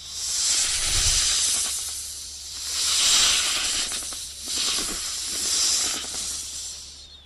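An animal hissing: a run of long, breathy hisses that swell and fade one after another.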